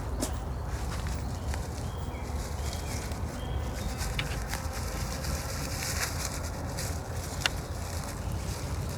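Footsteps through a forest, with irregular crackles and twig snaps underfoot and one sharper snap late on, over a steady low rumble of wind on the microphone.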